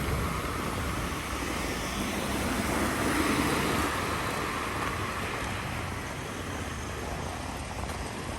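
Road traffic along a street: a steady wash of car noise, with a vehicle passing and loudest about three seconds in.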